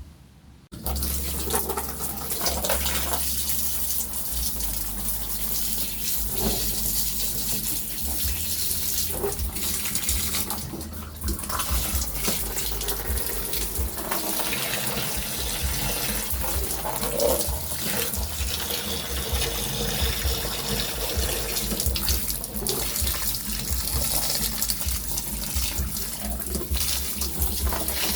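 Water running steadily and splashing, turned on suddenly about a second in.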